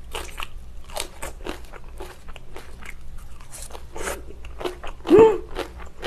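Close-miked crunching of fresh napa-cabbage kimchi being bitten and chewed, with crisp crunches two or three times a second. About five seconds in comes a short hummed sound from the eater's voice.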